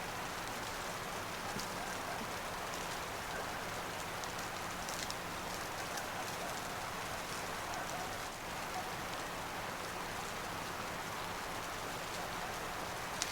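Steady hiss of precipitation striking a tent's fabric in a snowstorm, with a few faint ticks.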